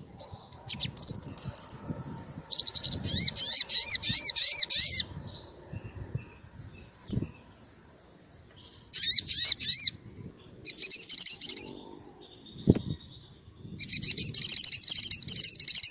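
Sogon sunbird singing: four bursts of fast, sharp, high-pitched trilled notes, each one to two and a half seconds long, with short pauses between.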